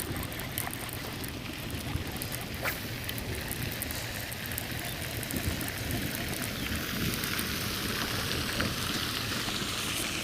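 Steady wind noise on the microphone, with faint scattered ticks throughout.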